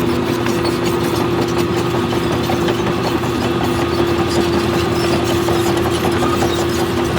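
Heavy earthmoving machine's diesel engine running steadily, with a constant whine held over the engine noise.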